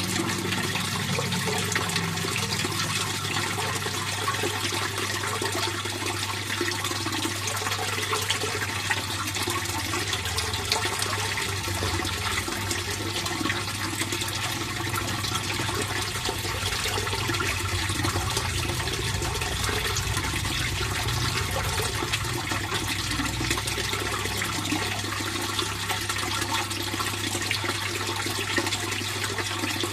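Water flowing steadily into a fish pond, a continuous rushing splash.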